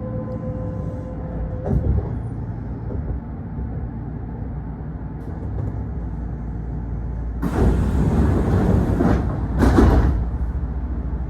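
Kintetsu electric commuter train standing at a station with its doors open: a steady low hum from its equipment, a single knock about two seconds in, then two loud hisses of compressed air near the end, the first lasting nearly two seconds and the second shorter.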